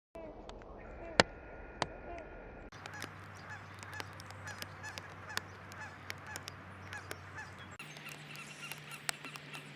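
Backyard birds calling in quick, repeated short notes, with scattered sharp clicks and a low steady hum underneath. The background changes abruptly twice, about a third of the way in and again near the end.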